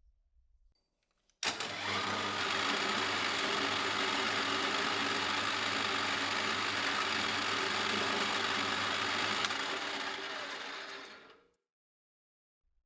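Small electric motor switched on abruptly, running at a steady speed for about nine seconds, then switched off and winding down to a stop.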